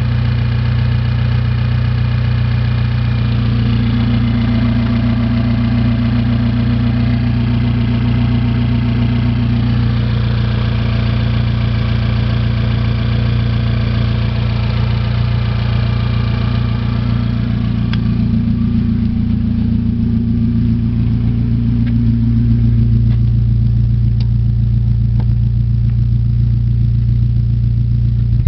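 Mitsubishi Pajero Io's 4G93 1.8-litre inline-four petrol engine idling steadily.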